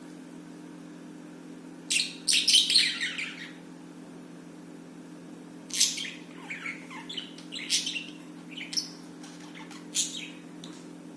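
Budgerigars chirping in short, scattered bursts, with a steady low hum underneath.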